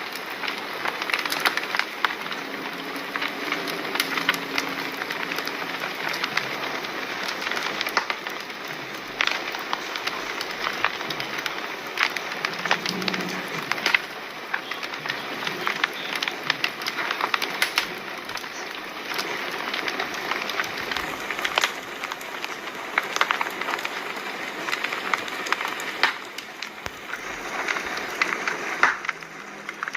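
Fire crackling: a steady hiss with frequent sharp pops and snaps all through.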